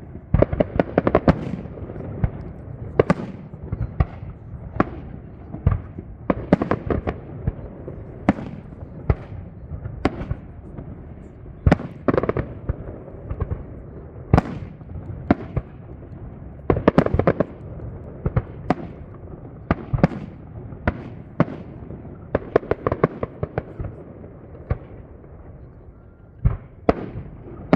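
Aerial fireworks display: a continuous run of shell bursts, sharp bangs and crackling rattles over a low rolling rumble, with denser volleys about a second in, around a quarter of the way through and again past the middle.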